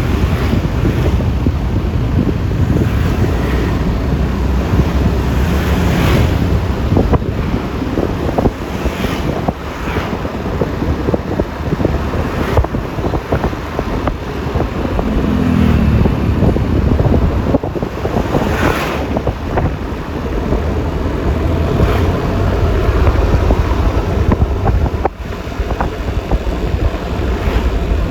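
Wind buffeting the microphone in a low rumble, over the running engine and road noise of a Yamaha Lexi LX 155 scooter being ridden, with a few brief louder swells.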